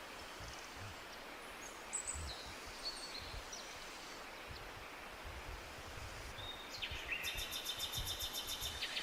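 Forest ambience: a steady hiss with songbirds chirping now and then, and a fast rattling bird trill starting about seven seconds in.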